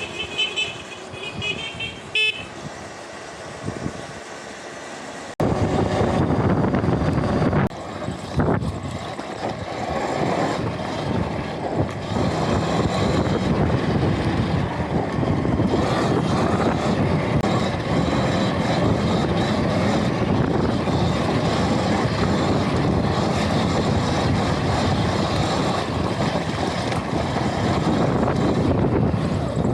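Riding noise from an electric off-road motorbike in motion: steady rushing wind and drivetrain noise with no engine note. A few short high beeps sound in the first couple of seconds, and the noise jumps up abruptly about five seconds in.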